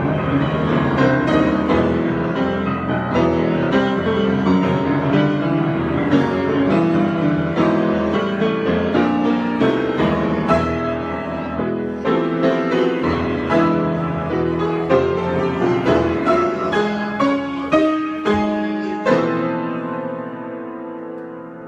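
Piano improvising, with a steady flow of notes and chords; near the end a last chord is struck and left to ring and fade.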